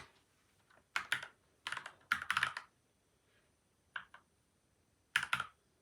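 Typing on a PCL87 mechanical keyboard with lubed stabilisers and Gateron Milky White and Outemu Yellow switches, dampened with tape and foam mods: short runs of keystrokes broken by pauses, a lone keystroke about four seconds in.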